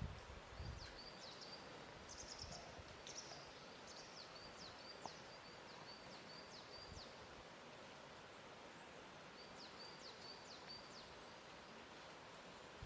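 Faint lakeside ambience: a steady hiss of water lapping, with soft low bumps near the start. A small bird chirps in two runs of quick high notes and short downward sweeps.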